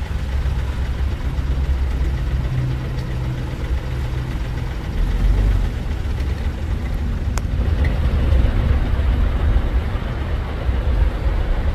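Vehicle engines running and idling in slow, jammed traffic: a steady low rumble, with a single sharp click about seven seconds in.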